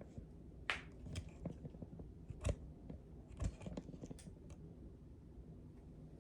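Light, irregular clicks and taps from handling the resin statue and its parts, about half a dozen in a few seconds, the sharpest under a second in and two more in the middle.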